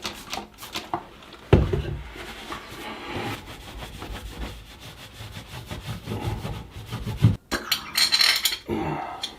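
Irregular metal clinks, knocks and scraping from handling the bathtub overflow faceplate and its screws with hand tools, with a brighter rattle near the end.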